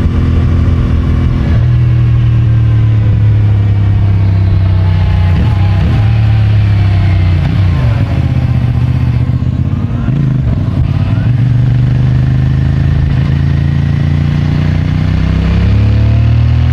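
CFMOTO 450MT's parallel-twin engine through its stock exhaust, riding along. Engine speed steps about 1.5 s in, dips and climbs again through the middle, and changes again near the end.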